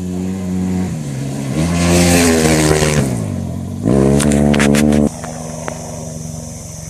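Rally motorcycle engines at speed, the note dropping and changing with gear shifts as a bike goes by, loudest about two seconds in with a falling pitch, then another loud burst of engine that cuts off suddenly about five seconds in, leaving a fainter steady engine hum.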